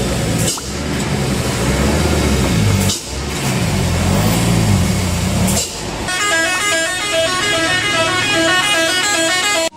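Heavy truck engine running with a deep rumble, broken by short cuts. About six seconds in, a melodic multi-note horn plays a quick stepped tune, the kind of musical horn fitted to Indonesian trucks and buses.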